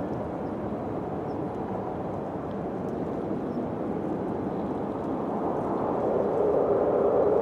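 Wind blowing in a low, steady rush, swelling into a louder gust about six seconds in.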